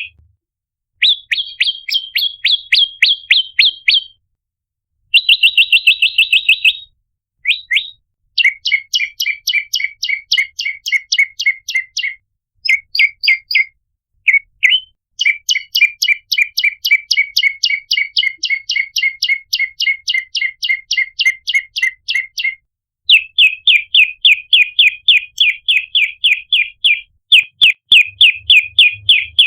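Olive-backed tailorbird (prenjak lumut) calling: loud, fast trains of sharp repeated chirps, several notes a second, in bouts broken by short pauses.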